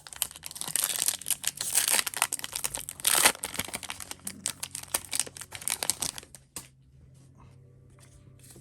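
Foil wrapper of an Upper Deck MVP hockey card pack being torn open and crinkled, a dense crackling for about six and a half seconds that then drops away to a few faint clicks.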